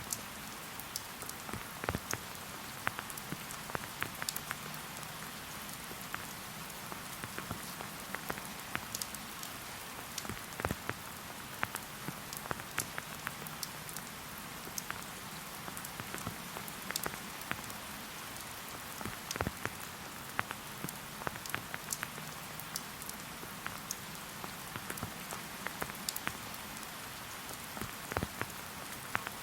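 Steady rain falling, with many separate drops ticking sharply and irregularly close by.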